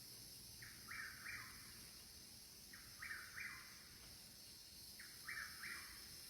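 A bird repeating a short three-note call about every two seconds, over a steady background of night insects.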